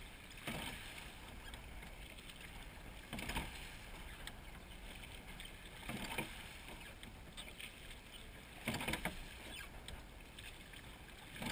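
A crew rowing a seine boat: the oars work the water in time, with a stroke sound roughly every three seconds, four in all, over a steady wash of water and wind.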